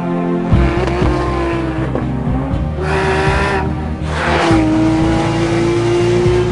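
Porsche 911 GT3's flat-six engine revving hard through gear changes, its pitch climbing and dropping several times. Two short rushes of tyre and road noise come about three and four seconds in.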